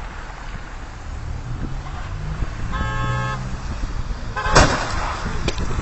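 Vehicle running over the road with a steady low rumble. A car horn sounds once, briefly, near the middle. About a second later comes a single sharp, loud bang, with a couple of smaller knocks after it.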